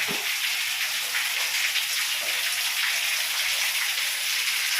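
Heavy, steady rain falling: an even, unbroken hiss of raindrops, raining hard.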